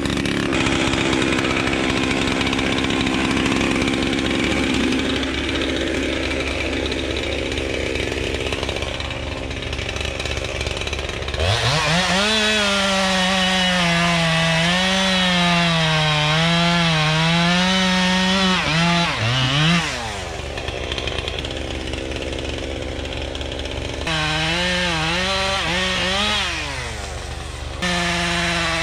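Chainsaw bucking a long log, running at high speed with its pitch wavering as it works through the wood. About twenty seconds in it drops back to a lower idle, then revs up again twice near the end.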